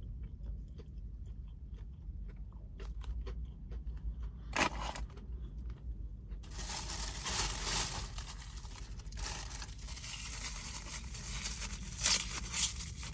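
Close-up eating of a crispy fried chicken sandwich. Soft chewing clicks, then a loud crunchy bite about four and a half seconds in. After that, continuous crunching with two sharp cracks near the end.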